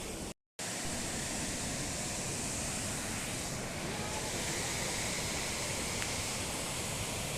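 Steady rush of a waterfall, an even wash of falling water, cutting out for a moment about half a second in.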